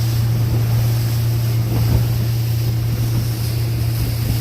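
Motorboat running underway: a steady low engine drone, with wind buffeting the microphone and water rushing past the hull.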